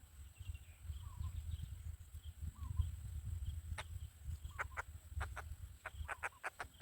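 Faint short bird calls over a steady low rumble, with a quick run of sharp clicks in the second half.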